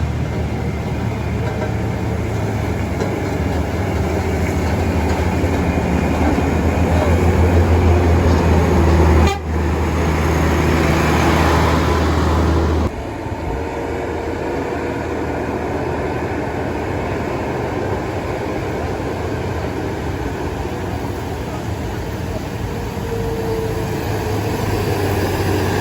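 Heavy diesel truck engine labouring up a steep climb: a low, steady drone that grows louder over the first nine seconds. It breaks off abruptly about thirteen seconds in and gives way to a quieter, steady engine hum.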